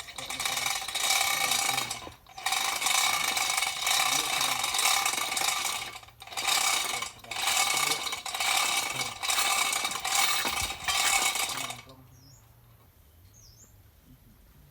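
Hammer drill running in repeated bursts of one to three seconds, a harsh rattling hammer noise over a steady whine, stopping about twelve seconds in.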